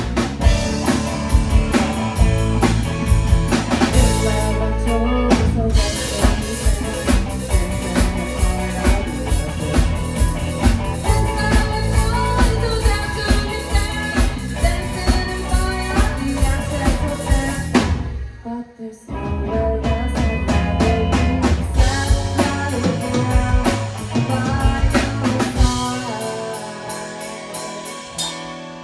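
Live band playing a song section with no lead vocal, the drum kit to the fore. The band drops out for about a second some eighteen seconds in, comes back in, and thins out near the end.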